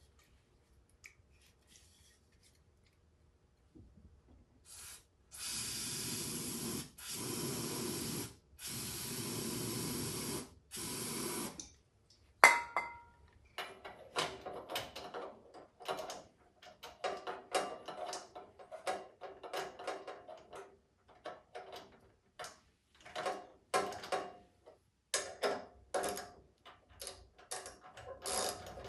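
Four bursts of aerosol spray, each about a second long, then a sharp click and a long run of rapid, irregular mechanical clicking and rattling from the snowblower.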